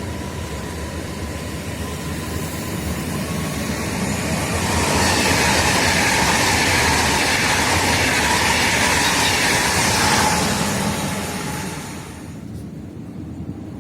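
Passenger train passing at speed: a thin steady whine at first, then a loud rushing rumble for about seven seconds that falls away quickly as the train goes by.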